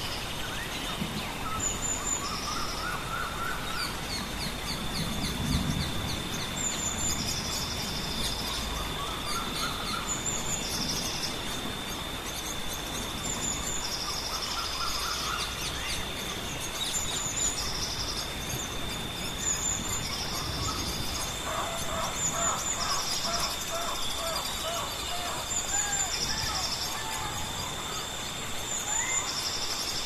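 Several wild birds singing and calling in short repeated phrases and trills, over a constant background hiss with a steady high-pitched whine running throughout.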